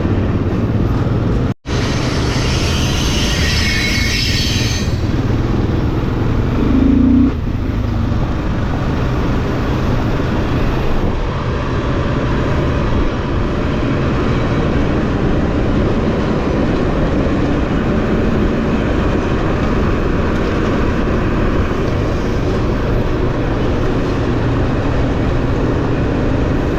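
Dual-sport motorcycle running at a steady pace while being ridden, a continuous engine and road rumble. The sound cuts out for an instant about a second and a half in.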